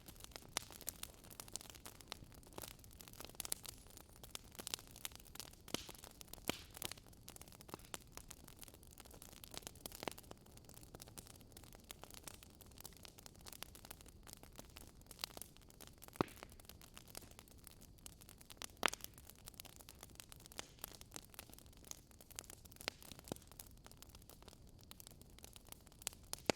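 Campfire crackling: irregular sharp pops and snaps of burning wood over a faint low hiss, with a couple of louder snaps about two-thirds of the way through.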